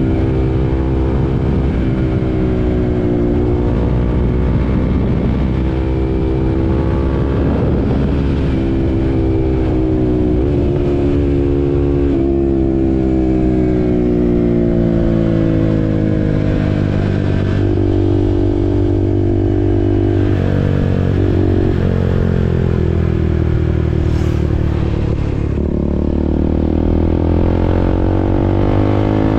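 KTM RC 390's single-cylinder engine running under way, its note climbing and dropping as the rider works through the gears, with a long fall in pitch while slowing and a rise again near the end.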